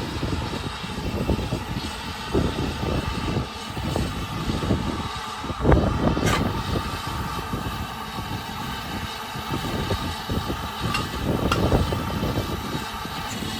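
Uneven low rumbling of a train in motion, with a few short sharp clicks about six and twelve seconds in.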